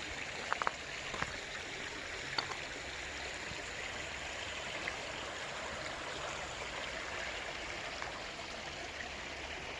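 Creek water running steadily over a crossing, an even rushing and trickling. A few faint clicks in the first couple of seconds.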